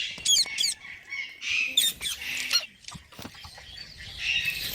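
Young green parrots chirping and squawking in a string of short, sharp, high-pitched calls with quick sweeping notes.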